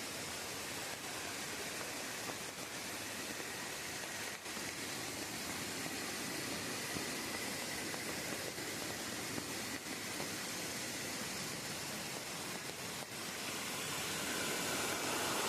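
Steady outdoor rushing noise, even and without clear events, growing louder near the end.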